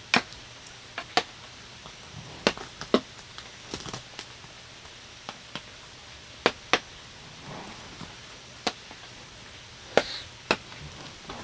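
Scattered, irregular drops of rainwater tapping on the tent fabric, sharp single taps at uneven intervals, over a quiet steady background.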